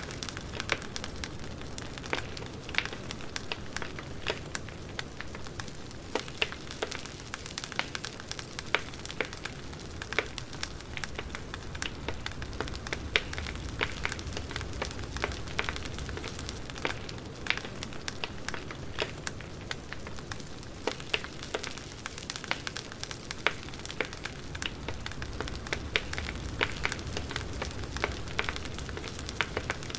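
Wood campfire burning with a steady low rumble and frequent sharp, irregular crackles and pops.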